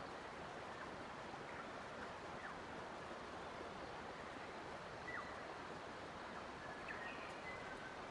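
Nature ambience: a steady, faint rush of flowing water, with a few faint, short bird chirps scattered through it and a small cluster near the end.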